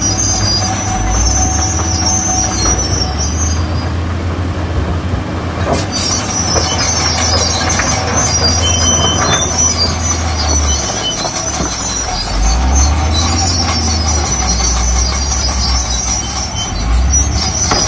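Heavy earthmoving machinery at work: a diesel engine running under changing load, with high-pitched metallic squealing on and off.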